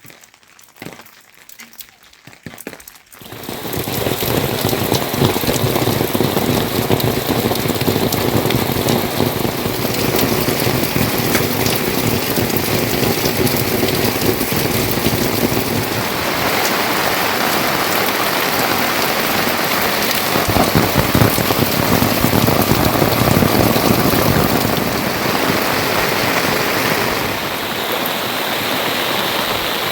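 Heavy rain falling steadily, a dense hiss with fine patter, setting in loud about three seconds in after a quieter start.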